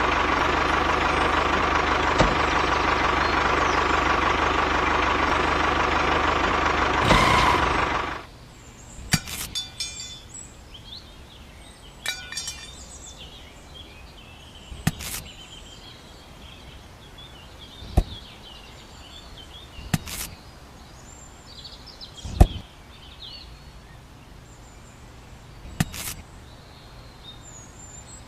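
A small motor running steadily, cutting off suddenly about eight seconds in. After that, birds chirp in the background and sharp single knocks come every two to three seconds.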